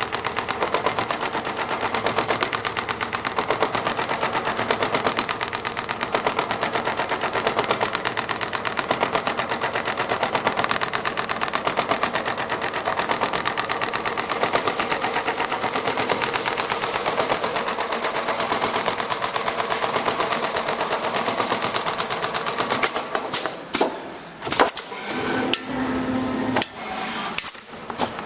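Computerized CNC sewing machine stitching leather at high speed, a fast steady rattle of needle strokes. Near the end it stops and starts in short bursts, with a brief steady hum in one of the pauses.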